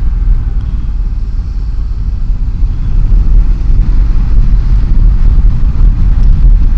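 Motorcycle on the move, heard from the rider's own microphone: a steady rush of wind and engine and road noise, a heavy low rumble that gets a little louder about three seconds in.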